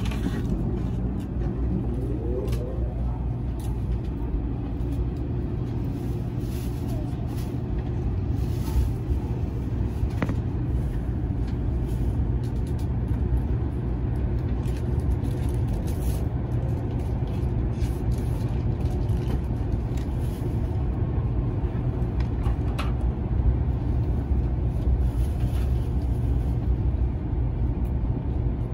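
Steady low rumble inside the cabin of a moving Shinkansen bullet train, with a brief rising whine about two seconds in and a few faint ticks.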